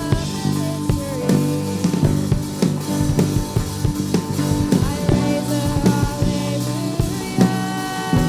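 Worship band playing a rock-style song: drum kit hits at a steady beat under sustained guitar and keyboard chords.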